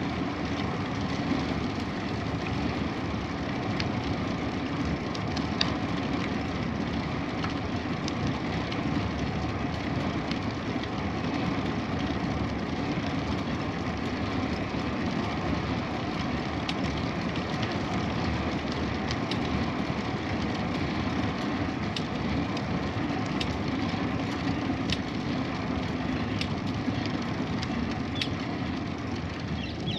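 Steady rumble and hiss of a bicycle ride: tyres rolling on the road and wind across the microphone, with scattered small ticks.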